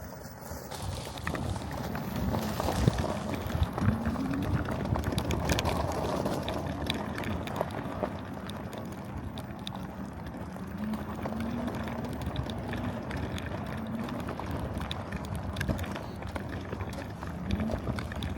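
Mini bike ride: wind buffeting the microphone and a steady rumble of motion over the ground, with a faint motor hum that rises and falls slightly.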